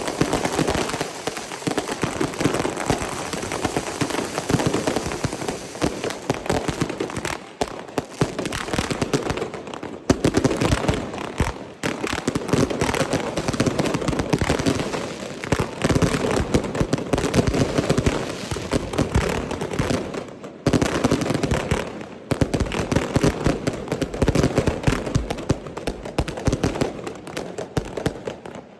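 Fireworks crackling and popping in a rapid, dense stream of sharp reports, easing off briefly a few times before picking up again.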